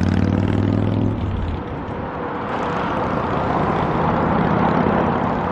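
A motor vehicle's engine running close by, a low drone that fades away about a second and a half in, leaving a steady rushing noise of road traffic.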